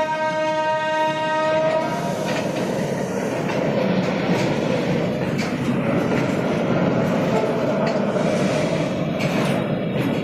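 Train horn sounding one long steady note for about the first two seconds, over the continuous rumble and clatter of loaded railway oil tank wagons rolling along the track, with clicks as wheels cross rail joints.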